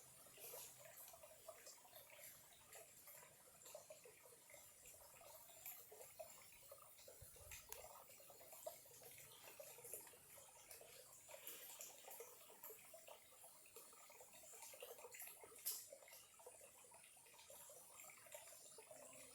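Small stream of clear water trickling faintly, a soft continuous babble with scattered small clicks and drips.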